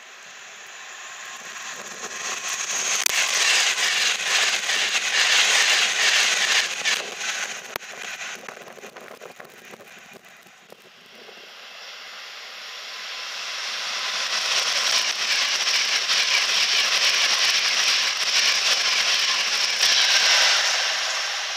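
Two express passenger trains passing through stations at speed. Each is a rising then fading rush of wheel and air noise, the first with rapid clicks running through it. The later train is a Virgin Class 390 Pendolino electric train.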